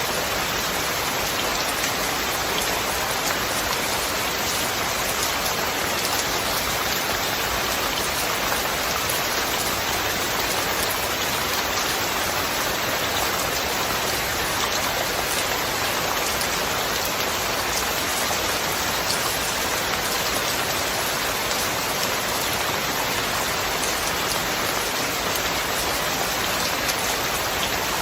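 Steady rain falling and pattering on surfaces, an even hiss with fine drop ticks that doesn't change.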